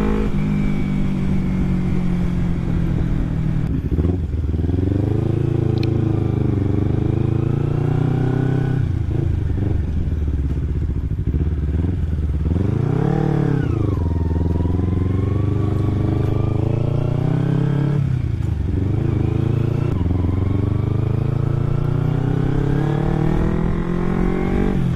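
Kawasaki Ninja 250 carbureted parallel-twin engine through an Akrapovic-style aftermarket exhaust, ridden on the road. The revs climb in each gear and drop at each upshift, about four times, with a quick rev rise and fall about halfway through.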